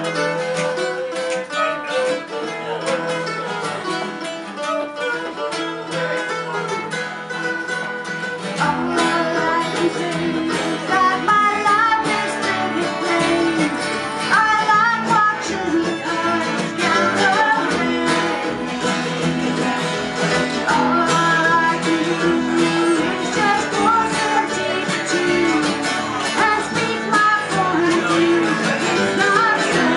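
A live band playing a song: acoustic guitar strumming, joined about nine seconds in by deep low notes as the music grows fuller and louder, with a voice singing over it from shortly after.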